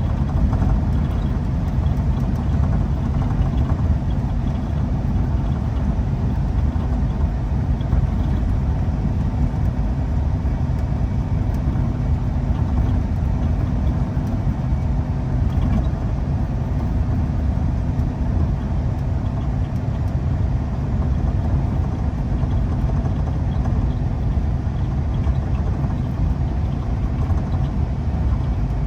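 Semi truck driving, heard from inside the cab: a steady low drone of diesel engine and road noise that does not change.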